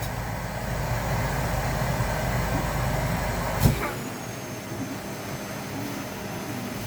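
Vacuum cleaner motor running with a steady rush of air, switched off with a click about three and a half seconds in, then winding down more quietly.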